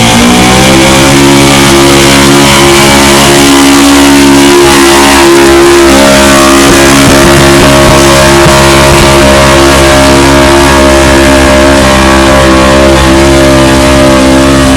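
Pulling truck's engine held at high revs under full load while dragging the sled down the track. Its pitch climbs over the first second, then holds steady and very loud.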